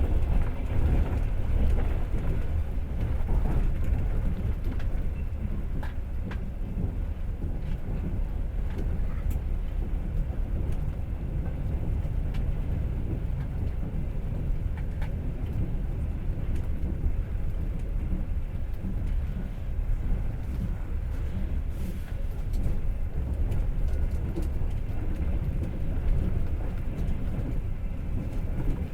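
Passenger train running along the rails, heard from inside the carriage: a steady low rumble of wheels and carriage, with a few faint clicks.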